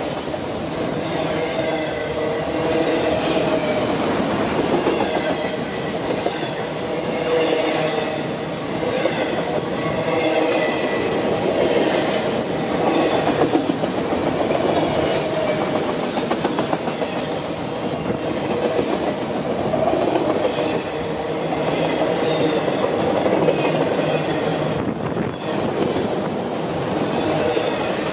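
Freight train of multilevel autorack cars rolling past close by: the steady rumble and clatter of steel wheels on the rails, with brief high-pitched wheel squeals several times.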